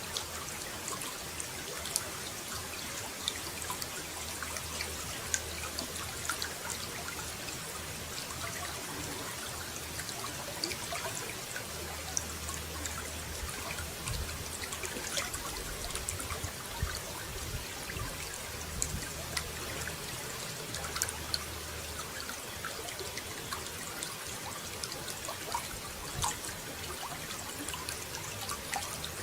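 Running water trickling and pouring steadily, with a constant patter of small splashes.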